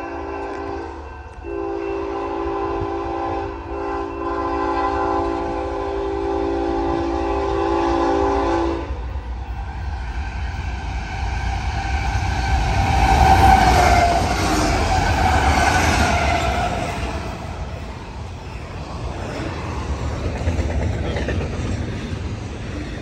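Freight locomotive air horn sounding a chord of several tones: a short blast, then one long blast of about seven seconds. Then the lead diesel locomotives of a Union Pacific double-stack intermodal train pass, their engines and wheels on the rail loudest about halfway through, followed by the steady rumble and clatter of the container cars rolling by.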